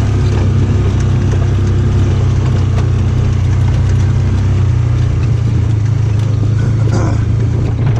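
Polaris farm vehicle's engine running steadily while being driven across a field.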